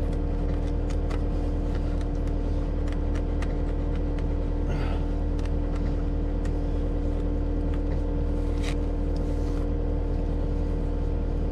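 Diesel engine of a Cat 259D compact track loader running at a steady speed, a constant low drone with a fixed hum, with scattered light clicks and knocks over it.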